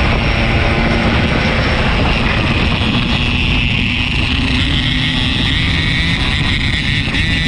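Yamaha RX-King 135 single-cylinder two-stroke motorcycle engine running steadily under way, with wind rushing over the microphone.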